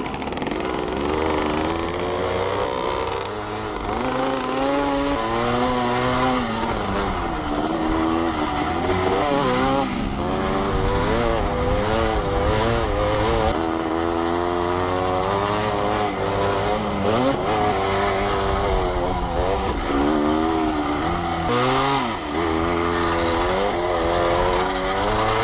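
Vintage Can-Am two-stroke motocross bike at race pace, its engine revving up and down again and again through shifts and corners.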